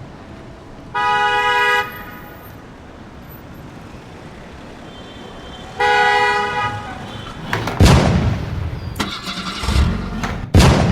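Car horn honking twice, each honk a steady tone about a second long, roughly five seconds apart. Two loud sudden bangs follow near the end, with a few sharper clicks between them.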